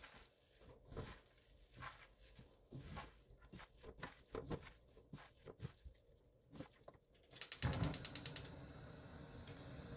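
Scattered light knocks and clicks of kitchen handling, then about seven seconds in a rapid run of sharp clicks from a gas stove's igniter lasting about a second. A steady hiss of the lit burner follows.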